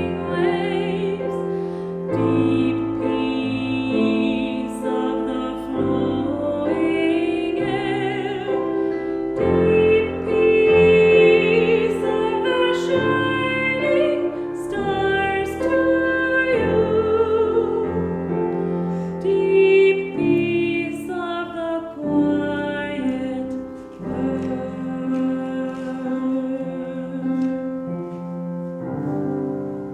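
Slow sacred song: singing voices with vibrato over piano accompaniment, in long held notes that fade out near the end.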